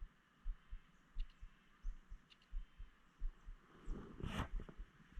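Low, regular thuds of walking footsteps carried through the body of a hand-held camera, about one and a half a second. About four seconds in there is a brief, louder rustle.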